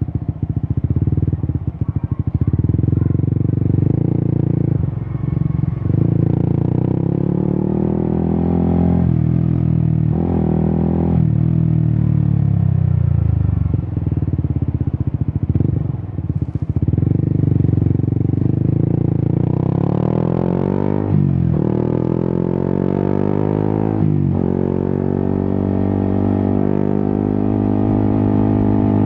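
Yamaha XSR 155's 155 cc single-cylinder engine through an Akrapovic aftermarket exhaust while riding. The revs climb and fall through several gear changes, rise hard about two-thirds of the way through, then drop and settle to a steadier, lower note near the end.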